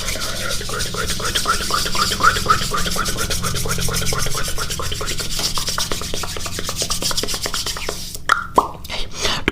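ASMR mouth sounds close to the microphone: a dense, rapid run of wet clicks, with short rising chirps about three or four a second over the first few seconds and a few separate sharper clicks near the end.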